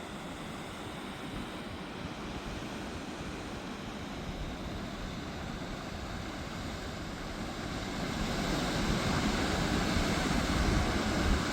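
Waterfall: a steady rush of water pouring over a stone ledge, growing louder over the last few seconds.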